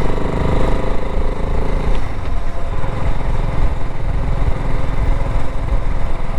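BSA Gold Star 650 motorcycle's single-cylinder engine running under way, heard from on the bike. The engine note is strong at first and eases off about two seconds in, as if the throttle is rolled back.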